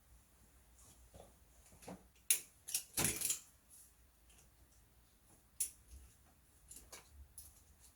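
Scattered clicks, knocks and rattles of hands at work on a motorcycle: a strap being undone and a body panel handled into place. The loudest is a quick run of sharp clicks and a short rattle about two to three seconds in, with single clicks after.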